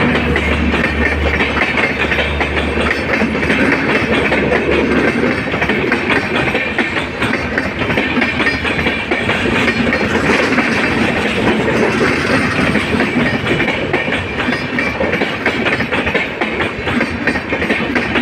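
Passenger train running, heard from inside the coach: a steady rumble with the clatter of wheels over the rails. A low hum fades out about three seconds in.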